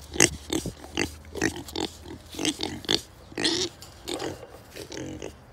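Pigs grunting in a quick run of short grunts, about two a second, with a longer, louder grunt about three and a half seconds in.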